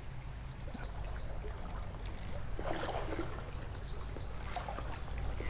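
Creek water trickling, with short splashy bursts about two and a half seconds in and again near the end.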